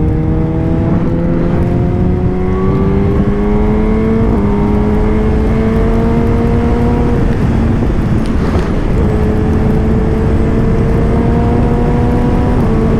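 Kawasaki ZX-10R inline-four sport bike engine under way, revs climbing slowly, with a gear change about four seconds in and another near the end, and a lift off the throttle in the middle. Heavy wind and road rush lies under the engine.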